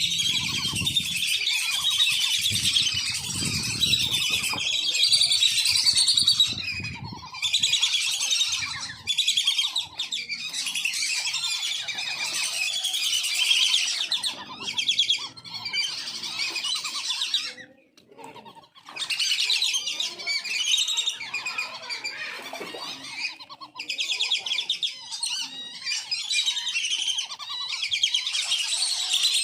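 A flock of wandering whistling ducks calling together, a dense, continuous chorus of high, chattering whistles, used as a lure call, with a brief lull about two-thirds of the way through. A low rumble runs under the first several seconds.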